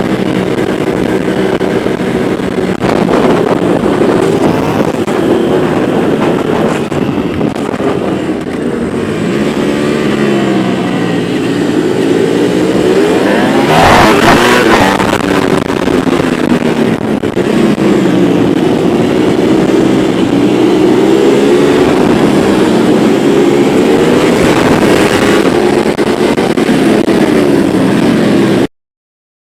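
Several Ducati motorcycles riding the circuit in a group, their engines rising and falling in pitch over one another, with one passing loudest about halfway through. The sound cuts off suddenly near the end.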